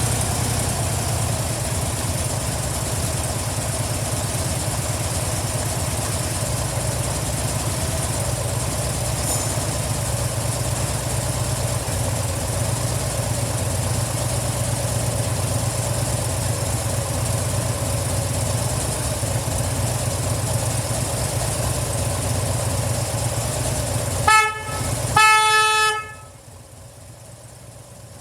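Harley-Davidson FXDL Dyna Low Rider's 1584 cc Twin Cam 96 V-twin idling steadily just after start-up. Near the end the horn gives a short beep and then a longer honk, and the engine cuts off right after.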